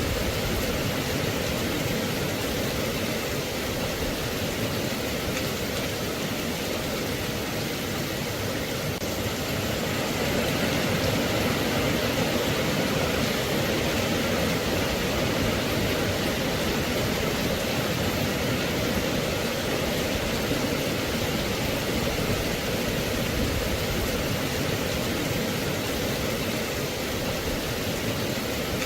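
Steady rain falling, an even hiss with no breaks, growing slightly louder about a third of the way in.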